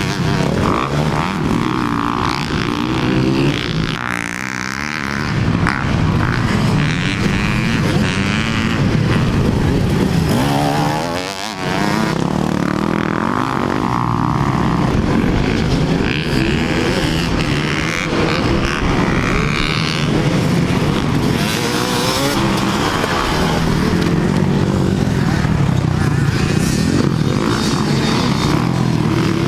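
Motocross dirt bikes racing, their engines revving up and dropping off over and over as they accelerate and brake around the track. There is a brief lull about eleven seconds in.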